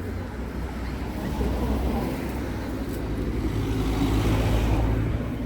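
A motor vehicle passing close by: a low engine rumble with tyre noise that swells to its loudest about four to five seconds in, then falls away.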